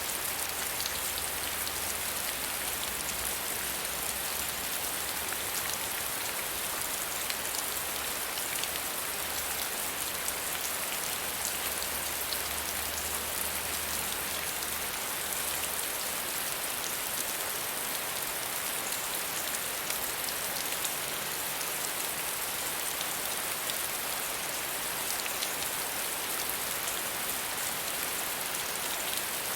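Steady soft rain falling, a continuous even hiss with fine patter of drops.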